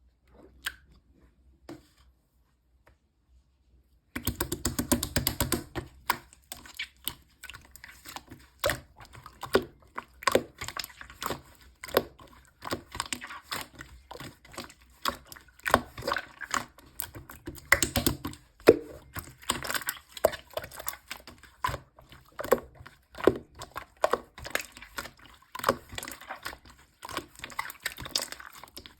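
Hands kneading and pressing slime: a dense, irregular run of sticky squishes, clicks and small pops, starting about four seconds in after near quiet.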